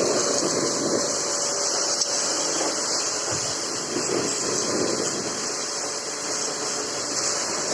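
Pressure washer running: a steady hiss of the water jet with a motor hum beneath it, blasting caked soil off a suhaga (plank field leveller).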